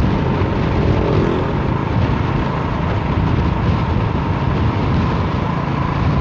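Vehicle running on the road in strong storm wind, the wind rushing steadily over the microphone along with engine and road noise.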